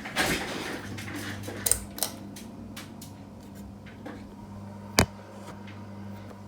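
Ceiling fan motor humming steadily while its pull-chain switch is worked to change speed: a short rustle at the start, a few sharp clicks, and one loud click about five seconds in.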